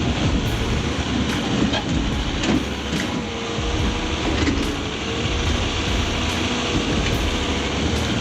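A motor-driven machine running steadily, with a wavering engine tone and scattered knocks and clunks.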